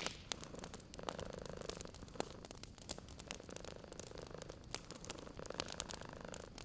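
A cat purring, swelling and fading with each breath, over a wood fire crackling with scattered sharp pops. A loud pop comes right at the start.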